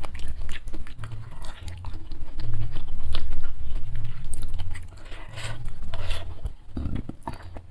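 A person chewing food close to the microphone, in a steady rhythm of about one and a half chews a second, with wet mouth clicks and small crunches between the chews.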